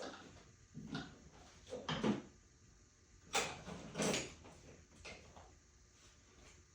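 A handful of separate knocks and clunks, about a second apart, from parts and tools being handled under a car's hood during engine disassembly.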